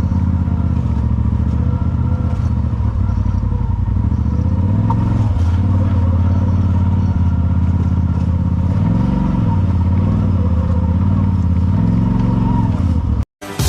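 Polaris side-by-side engine running while driving a trail, its engine speed easing off and picking back up several times, then cutting off abruptly near the end.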